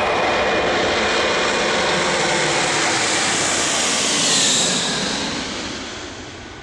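Antonov An-124-100's four Progress D-18T turbofans running at takeoff power: a loud jet roar with a high whine that swells about four seconds in, then fades steadily away.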